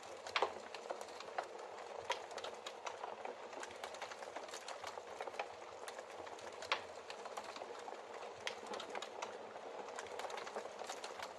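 Burning logs crackling in a fireplace: a dense, continuous run of small crackles with a few sharper pops, the loudest about half a second in and again near seven seconds.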